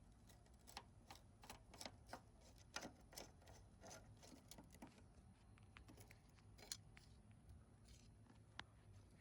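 Near silence, with faint, irregular clicks and taps.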